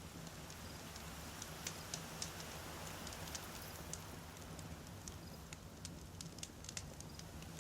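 Wood campfire burning, with irregular sharp pops and crackles of burning logs over a soft steady hiss and low rumble of the flames.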